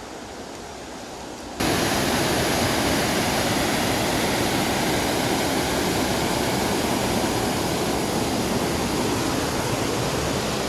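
Rushing water of a stream running high, a steady rush of noise that jumps suddenly much louder about one and a half seconds in.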